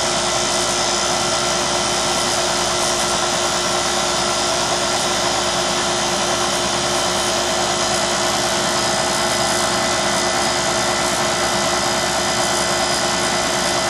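York heat pump's outdoor unit running steadily, its compressor and condenser fan humming at a constant pitch. The system is low on refrigerant and R22 is being fed in as gas on the low side, which slowly shifts the compressor's tone.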